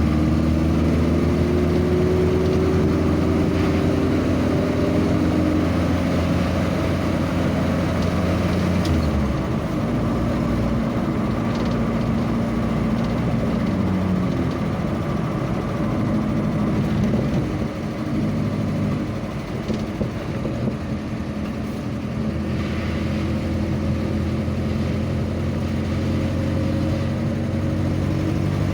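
Vehicle engine running while driving, its pitch shifting a little; the deep low hum drops away about nine seconds in and returns near the end.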